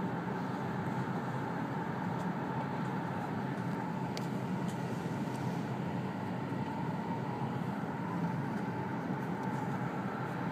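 Steady running noise heard inside the passenger cabin of an E2 series Shinkansen train under way, an even rumble and hiss with a faint steady high tone, and a few faint ticks about four to five seconds in.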